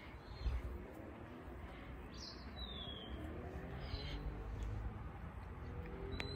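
Small birds chirping a few times, the clearest a high call that falls in pitch about two seconds in, over a steady low rumble.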